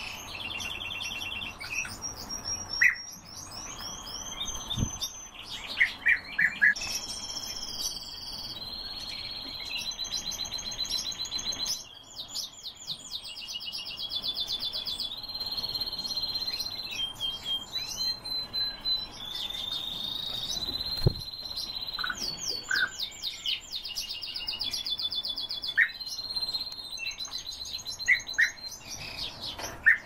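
Caged birds calling almost without pause: overlapping rapid trills, repeated high chirps and short held whistles. A couple of faint dull knocks come about five seconds in and again about twenty-one seconds in.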